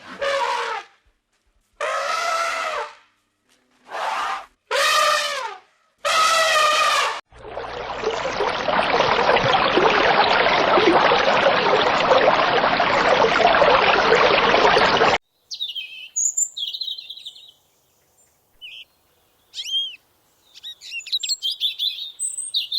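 A string of animal sounds: five separate calls with a falling pitch, each about a second long, then about eight seconds of loud, even noisy sound that stops abruptly, then bird chirps and short whistles.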